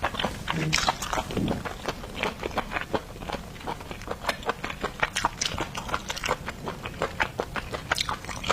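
Close-miked chewing and biting of seafood: a dense run of quick, sharp, wet clicks and crunches from the mouth.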